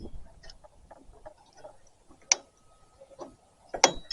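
Small metallic clicks and clinks of hand tools and parts while a microwave oven is dismantled. Two sharp metal snaps stand out, one about two seconds in and one near the end, each with a short ring.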